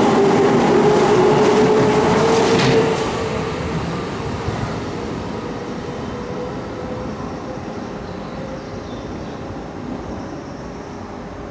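Keihan electric train running past the platform, a steady motor whine over wheel and running noise, loud for about three seconds, then dropping and fading away.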